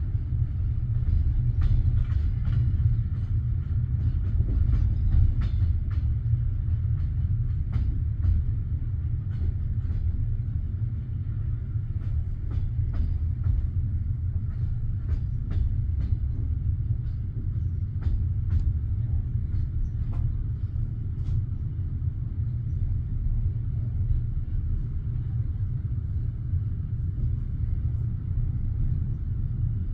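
Passenger railway carriage with a steady low rumble and scattered light clicks and knocks, most of them in the first two-thirds.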